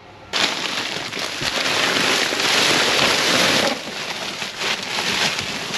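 Rustling and crinkling of plastic trash bags and packaging being handled and rummaged through, a dense crackling that starts suddenly and is loudest in the middle.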